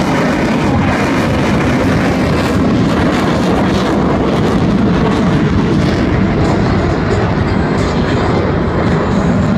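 F-16 fighter jets' engines at full afterburner in flight: a loud, steady rush of jet noise with no breaks.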